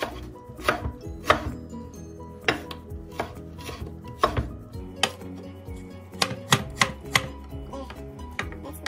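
Kitchen knife slicing fresh ginger root on a wooden cutting board: a dozen or so sharp, irregular knocks of the blade striking the board, about one or two a second.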